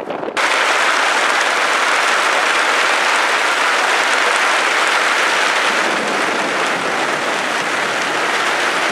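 Steady, loud rain pouring down, an even hiss that begins abruptly just after the start.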